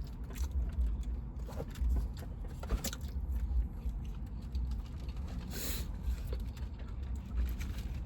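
Chewing a sandwich, with small mouth clicks and a brief rustle about five and a half seconds in, over a steady low rumble.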